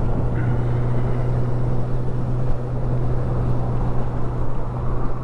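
Honda CB1000R's inline-four engine running steadily at a constant cruise in fifth gear, a steady, even drone with no revving.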